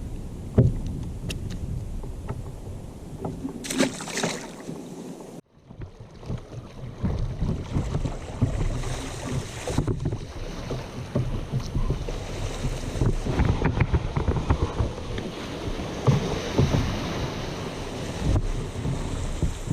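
Wind buffeting the microphone over water lapping and sloshing around a kayak, with small knocks and ticks scattered through. The sound cuts out abruptly for an instant about five and a half seconds in.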